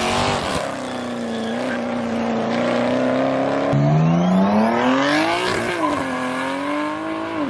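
V8 car engine held at high revs during a burnout, with the hiss of spinning tyres over it. About four seconds in the engine note drops sharply, then climbs steadily and settles back to a steady high note.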